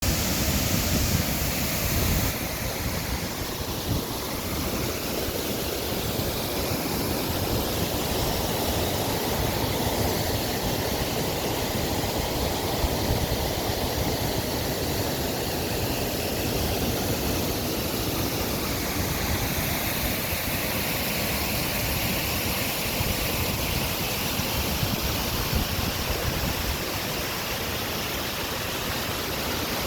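Waterfall rushing: a steady, dense roar of falling water, with low rumbling buffets that are likely wind on the microphone.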